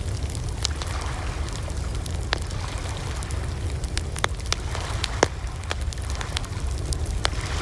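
Campfire of burning wood crackling, with scattered sharp pops over a steady low rumble.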